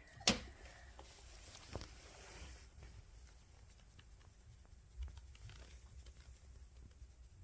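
A sharp click just after the start, a softer one a second and a half later and a dull thump about five seconds in, with faint scattered ticks and taps between, in a small room.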